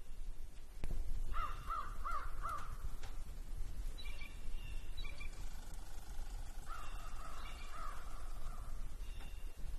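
A bird calling: two runs of about four short, rising-and-falling harsh calls, one near the start and one in the second half, over a low steady rumble.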